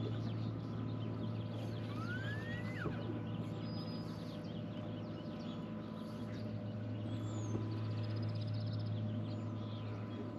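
Birds calling over a steady low hum: short scattered chirps, one clear rising whistled note about two seconds in, and a quick trill late on.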